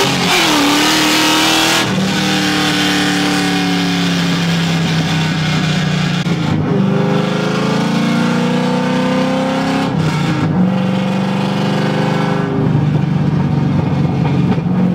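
LS2 V8 engine of a 350Z drift car running hard on the road, its pitch climbing and falling and changing sharply several times as it is driven.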